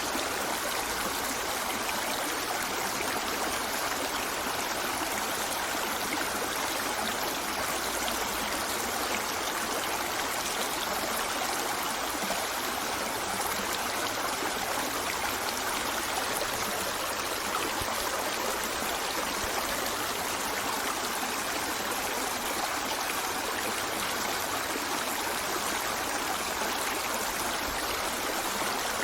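A shallow river flowing over stones, a steady rushing and gurgling of water.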